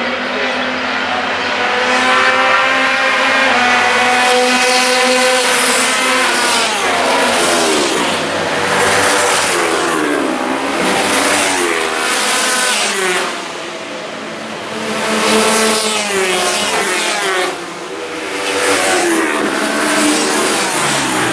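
Racing motorcycle engines at high revs, the pitch climbing through each gear and dropping at every shift, again and again, with the sound briefly falling away twice in the second half.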